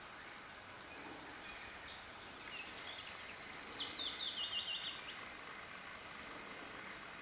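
A songbird sings one phrase of quick repeated notes that steps down in pitch. It starts about two seconds in and lasts roughly three seconds, over a faint steady outdoor background hiss.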